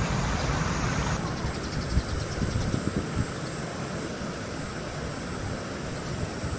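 Flowing river water, then after about a second an abrupt change to a steady high insect drone over a low rumble, as of summer insects by the river.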